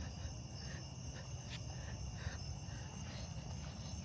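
Night insects chirping in a steady chorus: several continuous high trills, with a softer chirp repeating about twice a second beneath them, over a low rumble.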